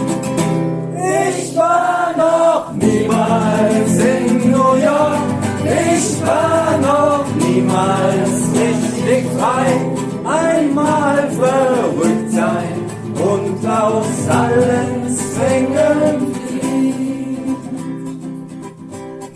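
Voices singing a melody over acoustic guitar accompaniment.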